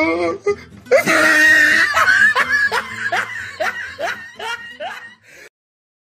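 A person laughing in a run of short 'ha' sounds, about two a second, after a loud burst about a second in; the laughter fades and cuts off abruptly near the end.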